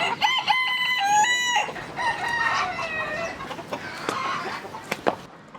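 A rooster crowing, a loud stepped call lasting about a second and a half, followed by a second, falling call and chickens clucking, with a few sharp clicks.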